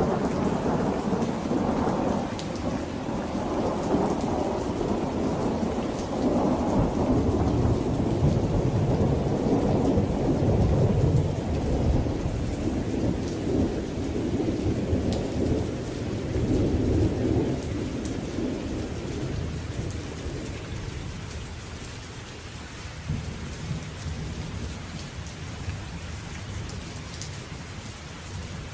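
A long roll of thunder that begins suddenly at the start, rumbles on loudly for about eighteen seconds and slowly dies away, over steady rain falling on surfaces with scattered drips.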